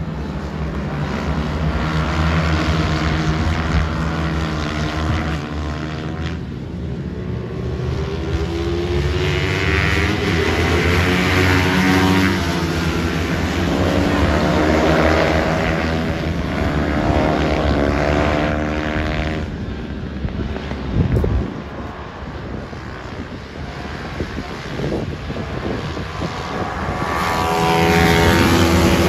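Several small motorcycle engines racing, their pitch rising and falling as riders rev up and shift, with a sharp thump about two-thirds of the way through.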